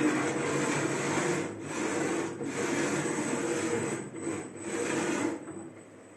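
CNC router cutting, a steady cutting noise with a few brief dips, that stops about five seconds in. A quieter hum and a thin high whine go on after it.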